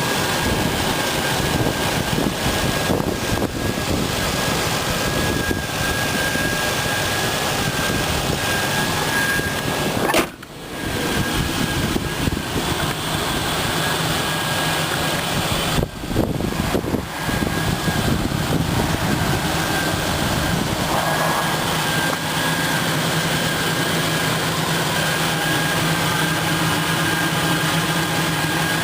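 A 2003 Ford Ranger's 4.0-litre V6 idling steadily under the open hood, with a thin, steady high whine over the engine noise. The sound drops out briefly twice, about ten and sixteen seconds in.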